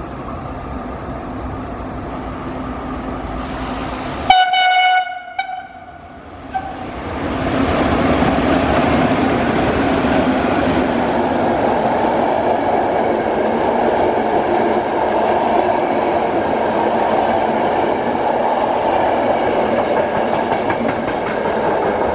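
Electric locomotive-hauled passenger train running through a station without stopping: a rising rumble as it approaches, a loud horn blast about four seconds in and a short second toot, then the steady rolling noise and clatter of the coaches passing, which cuts off at the end.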